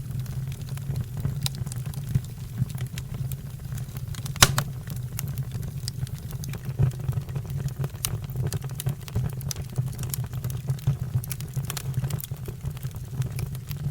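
Fire crackling: many scattered small pops and snaps over a steady low rumble, with one louder pop about four seconds in.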